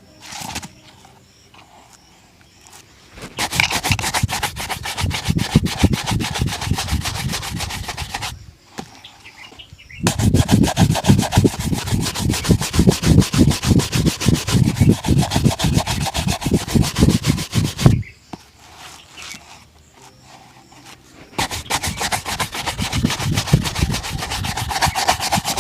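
A shoe being buffed with rapid back-and-forth rubbing strokes in three spells, the middle one longest and loudest.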